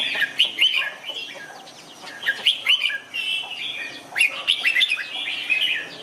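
Red-whiskered bulbuls singing: bursts of short, quick chirped phrases whose pitch swoops up and down, with brief gaps between bursts.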